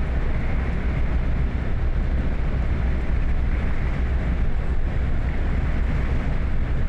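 A vehicle driving in heavy rain: a steady low rumble of engine and road with a hiss of rain and spray.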